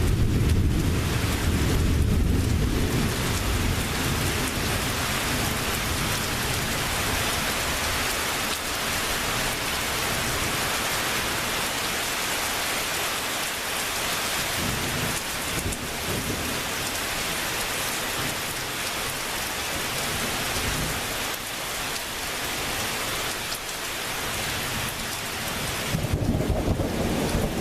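Heavy rain pouring down in a steady hiss during a thunderstorm, with thunder rumbling at the start and again near the end.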